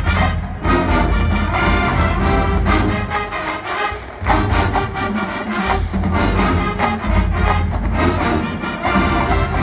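Marching band playing full out, brass over drums and a heavy bass line. The sound thins briefly about three and a half seconds in, then the whole band comes back in loud.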